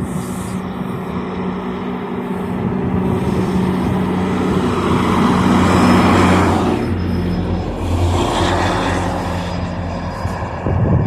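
Diesel locomotive engine running with a steady low drone as a train goes by, with two louder rushes of rolling noise, about midway and again a couple of seconds later.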